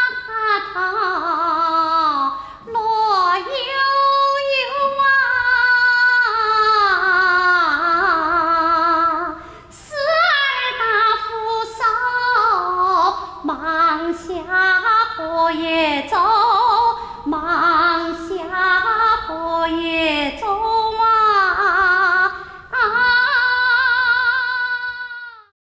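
A high voice singing a Sichuan opera aria, with wide vibrato and sliding pitch, in long phrases broken by short pauses; it stops abruptly near the end.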